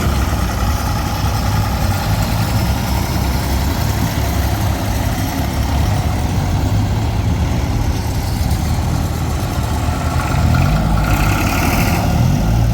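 Vintage car engines running as cars drive out of the show, one rising in pitch near the end as it revs up.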